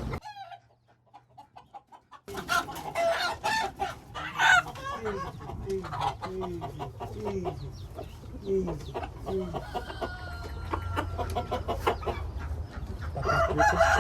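Chickens clucking with roosters crowing, many short repeated calls over each other. It starts after about two seconds of near silence.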